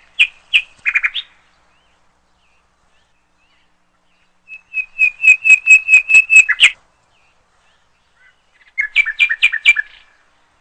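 Bird song: three short phrases of quick, high chirps with silence between; the middle phrase is a fast run of about ten repeated notes, the last a shorter trill.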